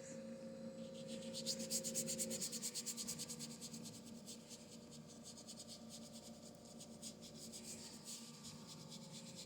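Paintbrush scrubbing across a canvas in quick, short strokes, several a second, strongest in the first few seconds and then lighter.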